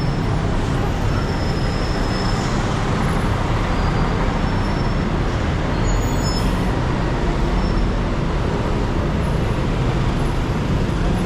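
Steady road traffic noise with a constant low rumble of engines.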